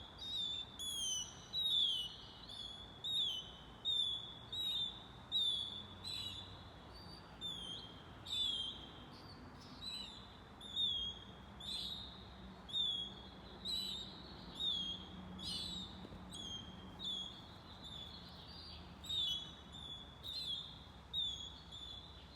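Baby birds cheeping: a steady run of short, high calls that drop in pitch, repeating about once or twice a second.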